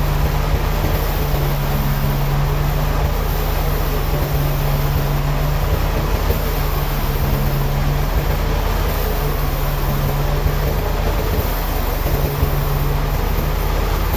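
Heavy machinery running steadily: a constant mechanical drone over a wash of noise, with a low hum that swells and eases every second or two.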